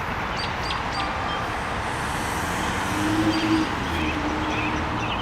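American robins singing in short chirped phrases over a steady wash of traffic noise, with a low drone swelling briefly about three seconds in.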